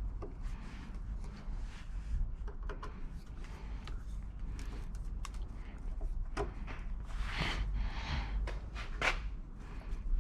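Hand tools and loosened interior trim in a car interior: scattered clicks, taps and scrapes, with a louder scraping stretch and two sharp clicks in the second half, over a steady low rumble.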